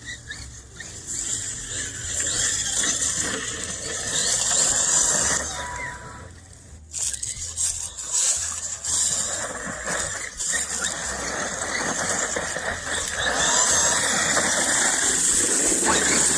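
Electric motor of a 1/7-scale RC monster truck whining as it drives over dirt and leaves, rising and falling with the throttle. It eases off briefly about six to seven seconds in, then picks up again.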